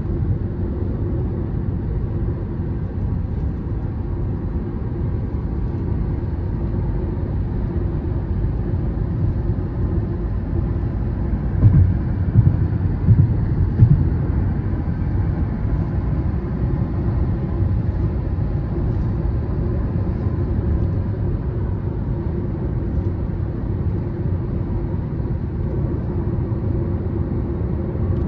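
Car driving at a steady speed: continuous low engine and road rumble, with a few louder low thumps near the middle.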